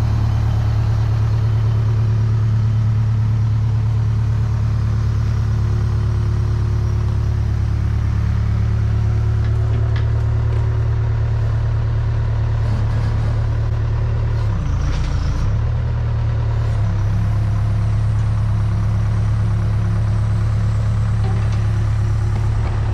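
Case 580K backhoe's four-cylinder diesel engine running steadily, with a brief dip and wobble in its pitch about fifteen seconds in.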